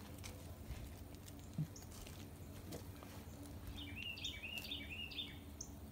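A songbird sings a quick run of chirping notes about four seconds in, over a steady low outdoor rumble. A single knock sounds about a second and a half in.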